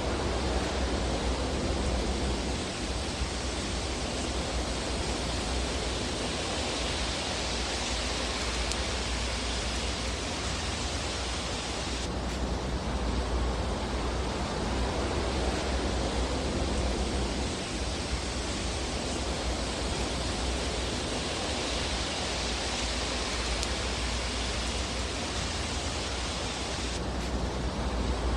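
Fireplace ambience: a steady hiss of fire over a low rumble, with no distinct crackles. It swells and eases slowly and shifts abruptly about 12 and 27 seconds in.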